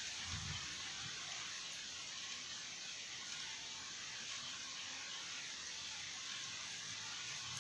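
Heavy rain falling steadily, a dense even hiss, with a brief low rumble near the start.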